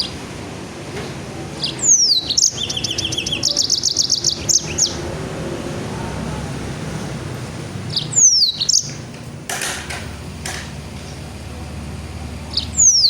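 A songbird singing in the rapid, dense 'nembak' (shooting) style. Each phrase opens with a sharp falling whistle; the first, about two seconds in, runs on into a fast volley of short high notes lasting about three seconds, and shorter phrases follow about eight seconds in and near the end. A low steady hum runs underneath.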